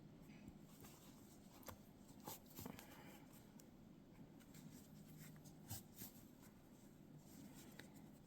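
Near silence with faint rustling and a few soft clicks: a yarn needle being woven through crocheted stitches, the yarn tail sliding through.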